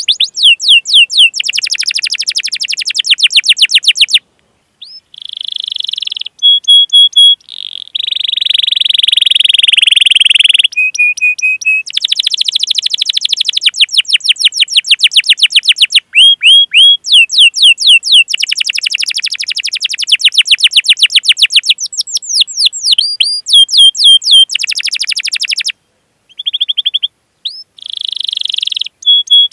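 Canary singing a long, fast song: rapid rolls of repeated chirps, sharp sweeping notes and short held whistles, with a couple of brief pauses. It is a master recording of canary calls and rolls played to prompt young or silent canaries to sing.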